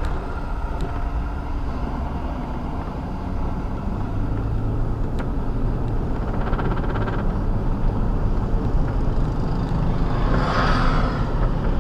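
Vehicle engine running with a steady low rumble, and a rushing hiss that swells and fades about ten seconds in.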